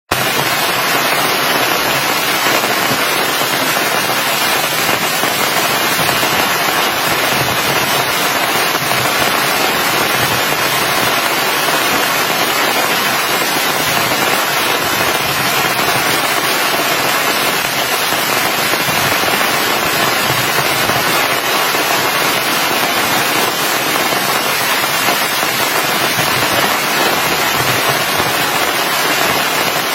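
Heavy rain falling steadily, a dense, unbroken patter of many drops.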